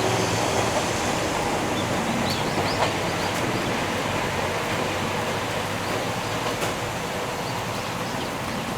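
Ohmi Railway electric train running along the line, a steady rumble of wheels on rail that slowly fades as it draws away, with a few faint clicks.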